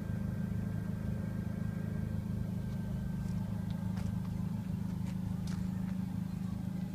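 Truck engine running steadily: an unchanging low drone, with a few faint ticks in the second half.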